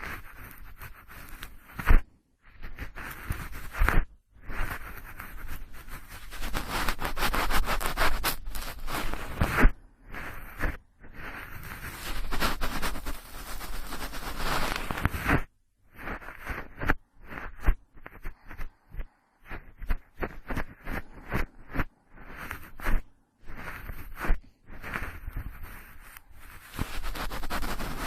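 Cotton swab swirling and rubbing against a binaural microphone's ear, close-up scratchy rustling in uneven strokes with short pauses and a few sharper scrapes.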